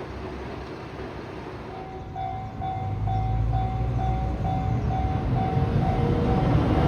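Diesel train on the Nishikigawa Railway, its low rumble growing louder from about three seconds in. A bell or chime rings steadily about twice a second through most of it, like a level-crossing or platform warning bell.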